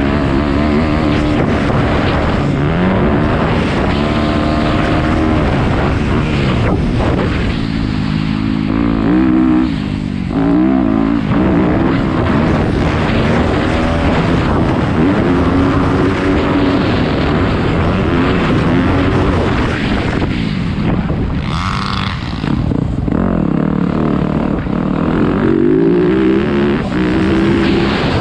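Dirt bike engine revving up and down again and again while being ridden round a motocross track, its pitch climbing under throttle and dropping off at each chop or shift, with wind noise on the microphone.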